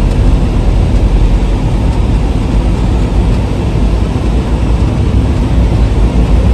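Steady low rumble of a semi truck's engine and road noise heard inside the cab while driving.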